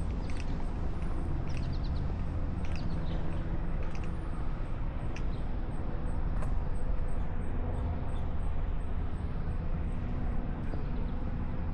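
Footsteps of a person walking a trail, faint regular steps roughly every second over a steady low rumble.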